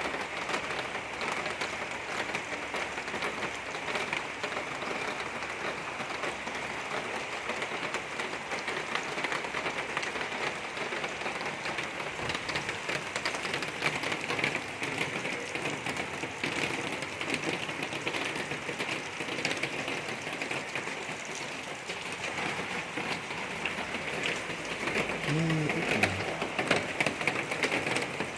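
Rain pattering steadily, a dense even patter of fine ticks.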